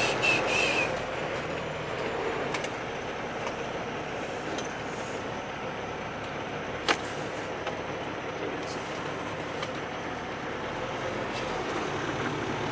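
Semi truck running, heard from inside the cab while it is maneuvered to back up to a loading dock door; a rapid high pulsing beep stops about a second in, and there is a single sharp click about seven seconds in.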